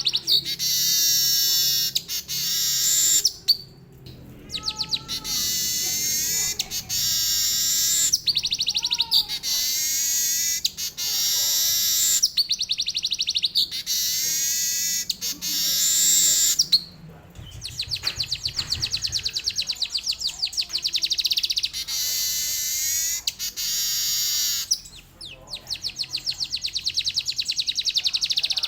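Manyar (weaver bird) singing in long, high, fast-trilling phrases with canary-like passages, each a few seconds long with brief pauses between. In the second half the song turns to rapid strings of repeated buzzy notes.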